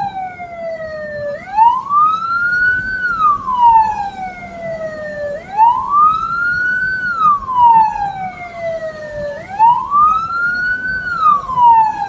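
Hearse siren wailing in a slow repeating cycle: each wail rises quickly for about a second, then falls away over about three seconds, about three times.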